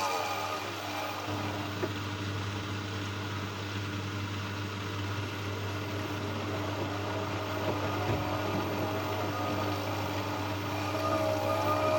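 Siemens washing machine's iQdrive motor: its wavering whine falls away about a second in, leaving a steady low hum, and starts again near the end. This is the failed spin cycle, in which the motor accelerates for a second or two, cuts out, and tries again over and over with no error shown.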